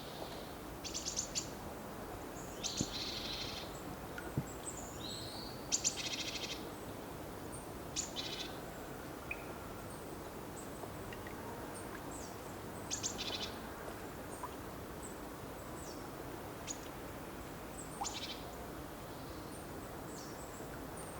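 Songbirds calling, with short rapid trilled phrases and single chirps repeated every few seconds over a steady low background hiss.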